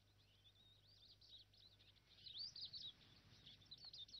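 Faint bird song: a quick, rambling run of high chirping, warbling notes that grows louder about halfway through.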